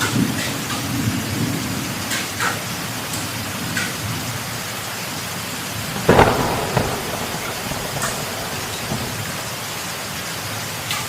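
Heavy rain falling steadily during a thunderstorm, with a low rumble of thunder at the start and a loud, sudden thunderclap about six seconds in; a few sharper drops or splashes tick through the rain.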